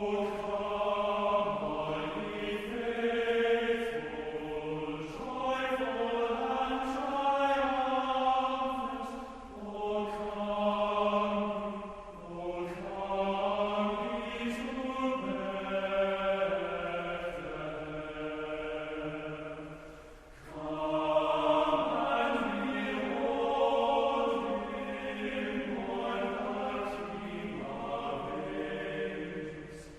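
Slow singing in long held notes, in phrases with brief pauses between them.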